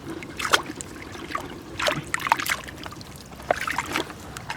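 Water splashing and sloshing in irregular short bursts over a steady low wash.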